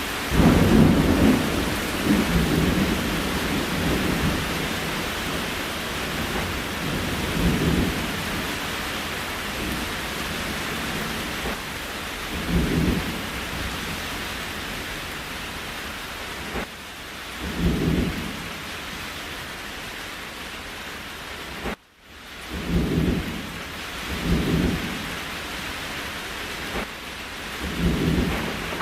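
Steady rain ambience, a constant even hiss, with a short low rumble swelling up every few seconds. About two-thirds of the way through the sound drops out for a moment and fades back in.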